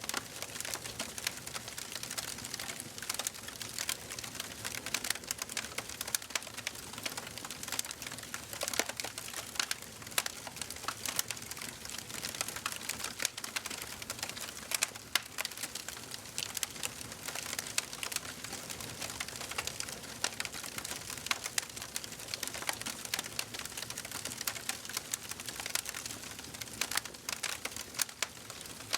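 Wood fire burning in a fireplace, crackling: a steady run of irregular sharp pops and snaps over a soft hiss.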